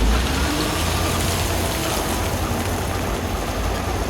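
Heavy wheel loader's diesel engine running steadily, a low rumble under a constant rush of noise.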